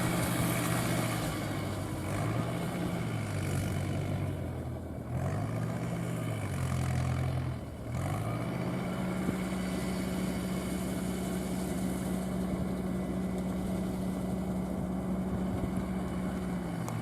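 Fiat 640 tractor's four-cylinder diesel running under load while it pulls and powers a straw round baler. Its speed rises and falls several times, dips briefly, then holds a higher steady speed for the second half before dropping off.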